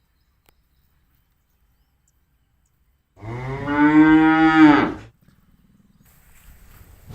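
A cow mooing once, a single call of about two seconds starting about three seconds in.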